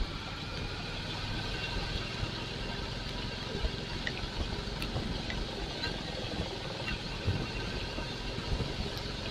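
Royal Enfield Classic 350's single-cylinder engine running steadily, heard from the bike itself, with a hiss of road and air noise and a few small ticks.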